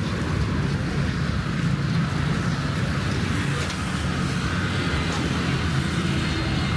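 Road traffic running past in a steady low drone, with no single vehicle standing out.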